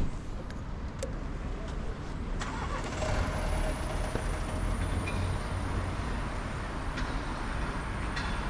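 A car driving past on a wet street: tyre hiss swells about two and a half seconds in over a low engine rumble.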